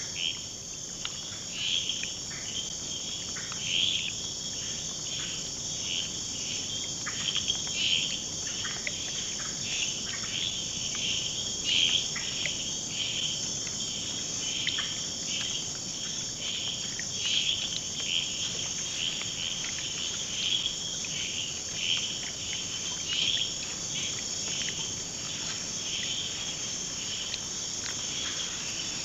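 Rainforest insect chorus: a steady high-pitched drone with many short chirps repeating irregularly over it.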